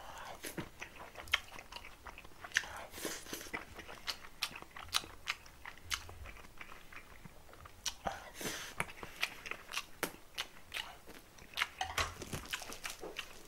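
Close-miked chewing of a mouthful of food: a run of short wet mouth clicks and smacks, busier about 3, 8 and 12 seconds in.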